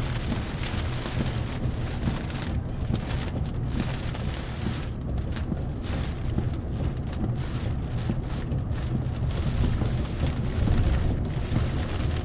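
Steady noise inside a moving car: a low road rumble under an even rushing hiss of tyres and rain.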